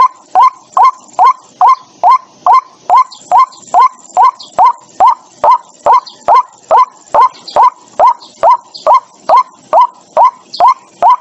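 White-breasted waterhen calling: one harsh note repeated steadily, a little over two a second, each note sliding up in pitch.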